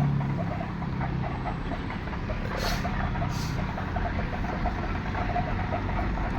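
A motor vehicle's engine running steadily, with two short hisses about three seconds in.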